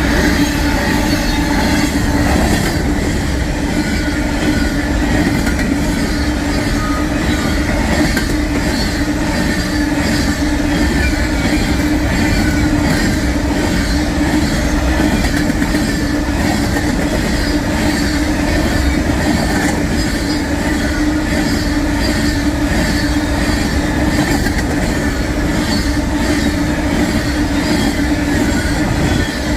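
Westbound Union Pacific empty coal train rolling steadily past, its empty hopper cars rumbling and clattering over the rails with a steady hum running through it.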